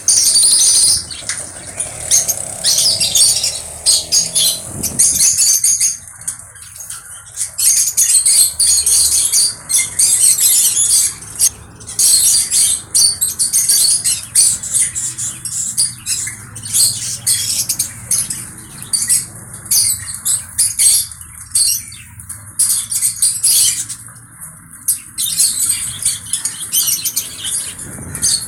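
Conure giving a continuous stream of short, high chirps and squawks with brief gaps.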